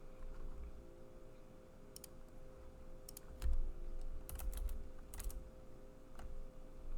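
Typing on a computer keyboard in short, irregular bursts of key clicks while code is being written, over a faint steady electrical hum.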